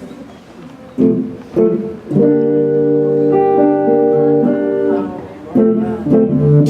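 Guitar strumming the slow opening chords of a worship song: two separate strums about a second in, then a chord left to ring for about three seconds, then two more strums near the end.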